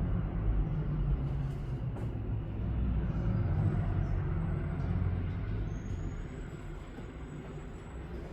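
A low rumble, like heavy traffic passing, easing off over the last few seconds, with a faint high-pitched tone in the second half.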